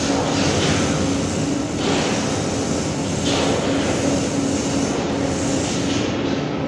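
A machine running steadily and loudly, with a pulsing hum and a hiss that swells every second or two.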